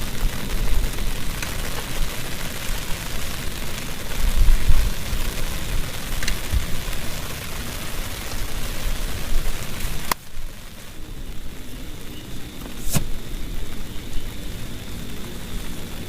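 Heavy rain falling steadily as a dense hiss, with a low rumble swelling about four seconds in. Two sharp clicks come about ten and thirteen seconds in, and after the first the hiss is quieter.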